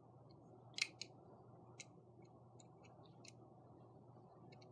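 Faint, scattered light clicks of small die-cast toy cars being handled, over low room hiss; the clearest click comes about a second in.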